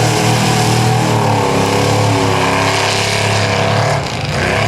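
Engine of a Ford F-550 mud-bogging monster truck revving hard, its pitch rising and falling with the throttle, with a brief drop-off about four seconds in.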